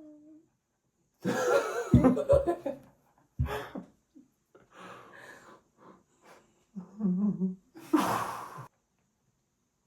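Several people laughing, gasping and breathing out in bursts, with a few dull thumps about two seconds in and a last breathy burst near the end.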